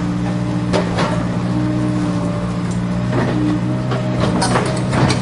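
Remote-control toy excavator running, with a steady mechanical hum and a few sharp plastic clicks and knocks about a second in, around three seconds, and near the end.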